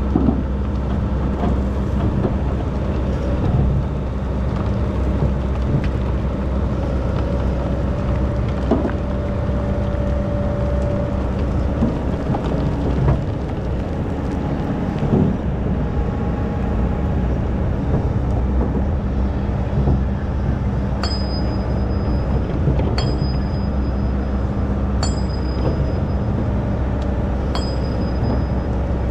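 Excavator's diesel engine running steadily at a sand-mining pit. In the last third, sharp metallic clinks with a short high ring come about every two seconds.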